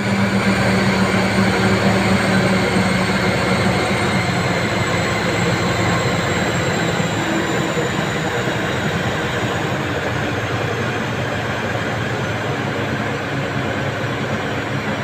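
Engine running steadily, with a faint high whine that drifts slowly lower in pitch; it is running at normal power after its fuel injectors were balanced.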